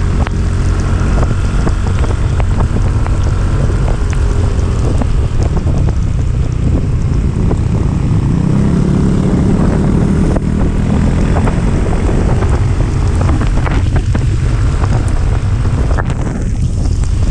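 Motorcycle engine running steadily under load on an uphill ride, with heavy wind buffeting on the microphone.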